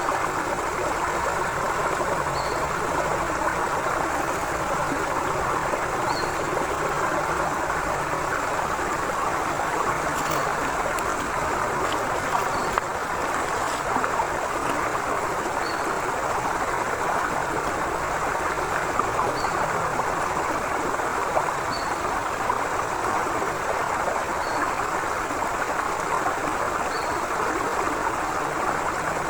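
Forest river flowing steadily with an even rush and gurgle of water. A faint short high note repeats every two to four seconds, and there are a few light clicks.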